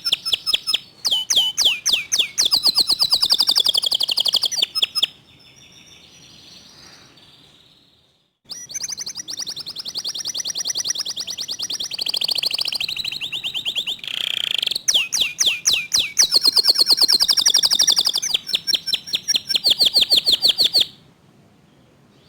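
Local canary singing fast, tightly spaced trills of rapidly repeated high notes, the rapid 'tembakan' bursts prized in song canaries. The singing comes in two long runs, with a pause of about three seconds between them, and stops shortly before the end.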